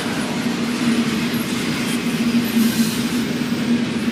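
Intermodal freight train's container cars rolling past at close range: a steady rumble of steel wheels on rail with a low hum running through it.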